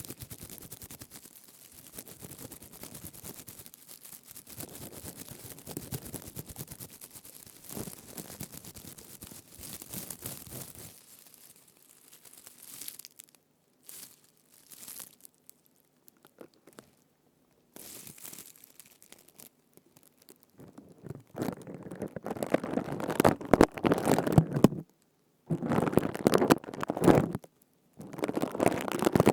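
A crown of leaves rubbed and squeezed close to the microphone: soft, crinkly rustling at first, then after a few near-silent pauses, louder crackling bursts with short breaks between them from about two-thirds of the way in.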